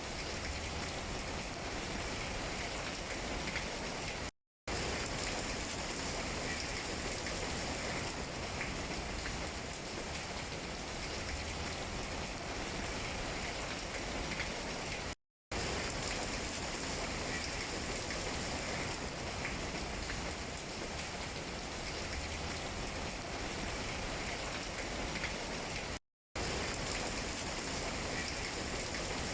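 Steady rain falling on tree leaves, an even hiss of many drops. The sound cuts out to silence for a split second three times, about every eleven seconds.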